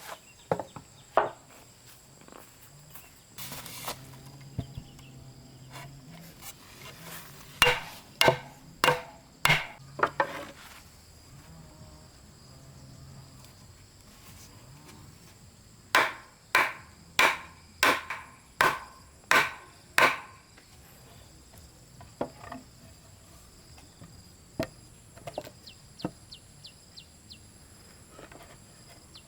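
Hammer striking wood in two runs of about half a dozen blows each, a little under two a second, with a few scattered lighter knocks between. A faint steady high insect drone runs underneath.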